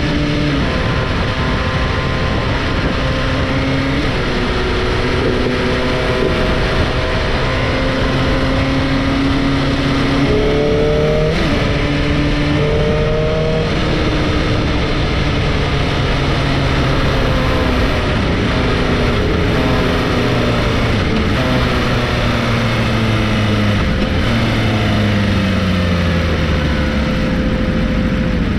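Sport motorcycle engine running under way, its pitch stepping up and down with throttle and gear changes over a steady rush of noise. Near the end the pitch slides down as the bike slows.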